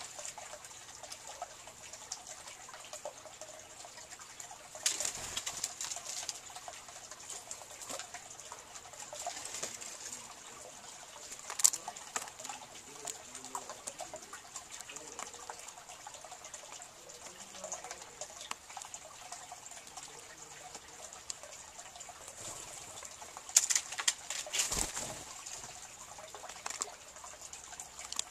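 Green jays and a northern cardinal feeding on a seed-strewn log close to the microphone: wing flutters as they land and take off, and scattered pecking taps and knocks on the wood. The sharpest knocks come in three clusters, over a steady high hiss.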